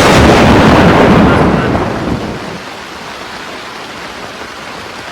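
A close thunderclap's loud rumble dying away over about two seconds, leaving steady rain.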